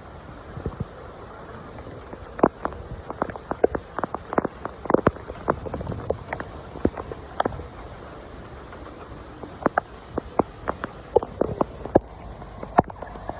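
Heavy rain: a steady hiss of downpour with many loud, irregular drops striking a hard surface close by, coming in thicker spells about two to seven seconds in and again near the end.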